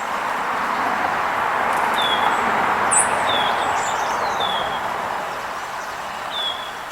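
Road noise from a passing vehicle swells and then fades. Over it come a few short, high, down-slurred songbird chirps.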